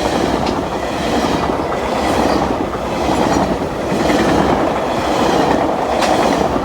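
Commuter train's passenger coaches, behind a leading cab car, rolling past: a loud, steady rumble of wheels on rail, with a couple of sharp clicks as wheels cross rail joints.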